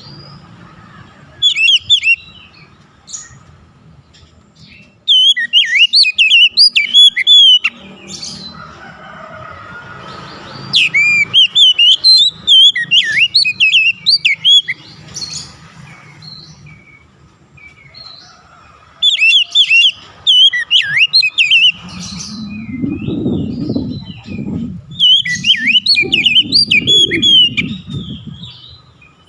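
Oriental magpie-robin (kacer) singing: about five bursts of quick, varied whistled phrases, a few seconds apart. A low rumbling noise sits under the song in the last third.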